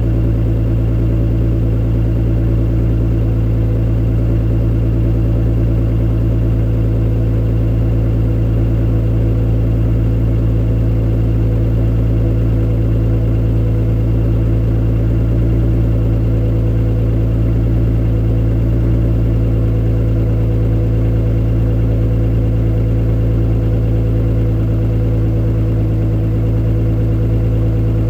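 Acura NSX's mid-mounted V6 idling steadily soon after a cold start, with no revving.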